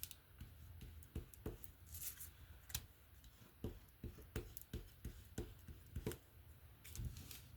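Faint, irregular light clicks and scrapes of a thin piece of cardboard being worked over paper as a makeshift squeegee, about one or two a second.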